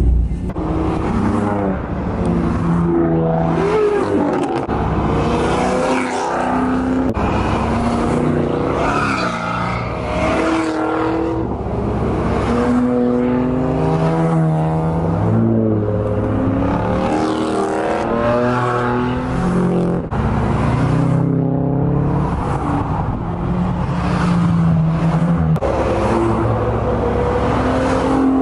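Several tuned cars' engines and exhausts running at highway speed alongside and passing, their pitch holding steady and then rising as drivers accelerate, over steady wind and road rush.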